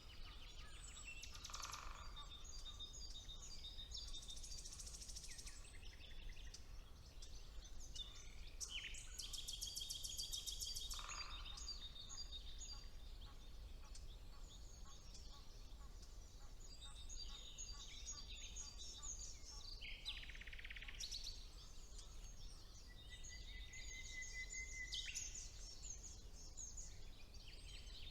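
Several songbirds singing at once in spring woodland, with the common nightingale among them: varied phrases of rapid trills, buzzy rattles, sweeping notes and a long held whistle, over a faint low rumble of background noise.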